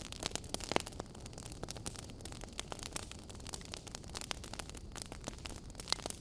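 Campfire burning, with a steady low rush and irregular sharp crackles and pops of burning wood, a few louder pops in the first second and another near the end.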